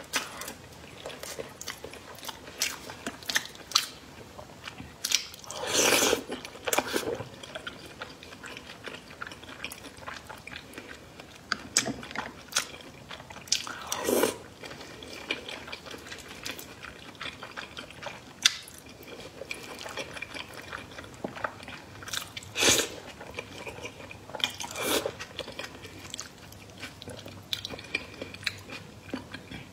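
A person chewing and biting food close to the microphone: a steady run of small clicks, with a few louder crunching bites.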